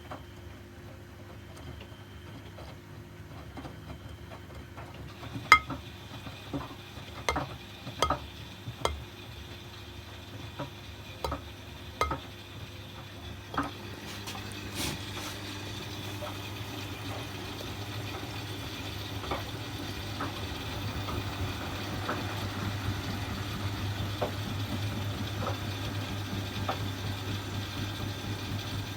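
Miele washing machines running: a steady motor hum with about a dozen irregular clicks and knocks from the drum over several seconds, then the hum grows gradually louder through the second half.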